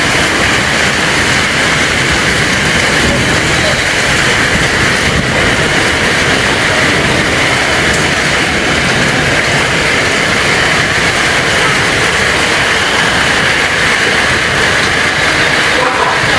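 Strong dust-storm wind blowing hard and without let-up, a loud, steady rushing noise on the microphone.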